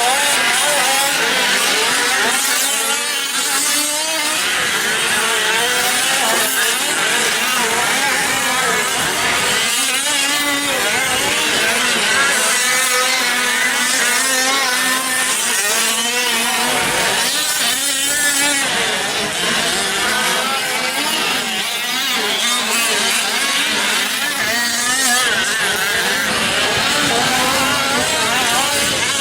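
Several 5th-scale RC trucks' small two-stroke gas engines racing, their high buzz rising and falling in pitch as they throttle up and back off around the track.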